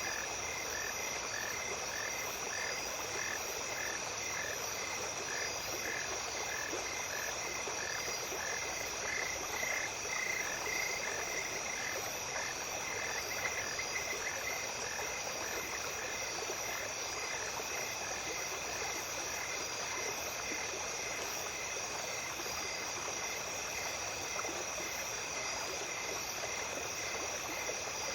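Night stream ambience: running water under a steady high insect trill. A rhythmic call repeats about twice a second through the first half, then fades out.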